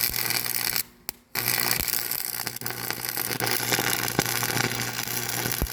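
An engine running steadily, with a constant low hum. The sound cuts out almost completely for about half a second, about a second in, then resumes.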